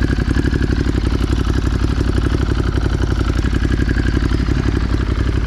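2023 Ducati Monster 937's L-twin engine idling steadily with an even pulse while it warms up.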